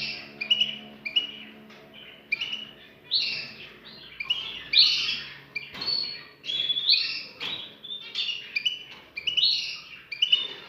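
Cage birds chirping repeatedly in short calls, about one or two a second. A faint low steady hum sits underneath for the first half.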